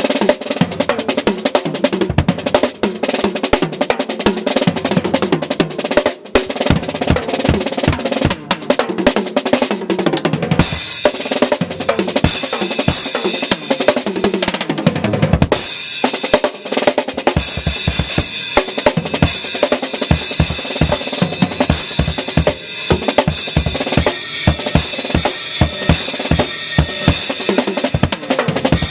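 Acoustic drum kit played hard and fast: busy snare and tom strokes at first, then from about ten seconds in, cymbals ringing over a run of rapid bass drum strokes.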